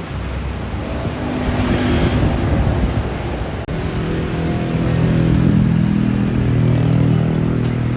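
Heavy truck engine running as vehicles pass on a busy road, over steady traffic noise. The sound cuts out for an instant about halfway, then a deep engine note swells and fades near the end.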